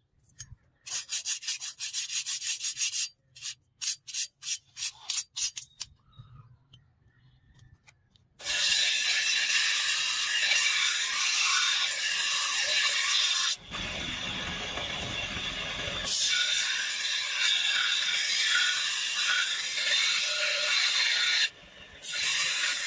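Abrasive rubbing and rasping of a tool working material: a run of quick strokes, then separate strokes, then a steady continuous rasp from about eight seconds in that turns duller and lower for a couple of seconds midway.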